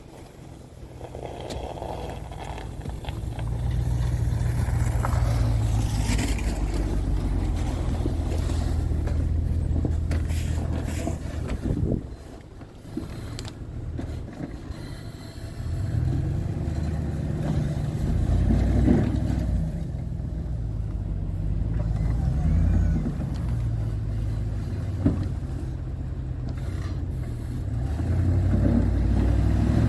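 Truck engine running, its pitch rising and falling repeatedly. It drops off briefly about twelve seconds in, then picks up again.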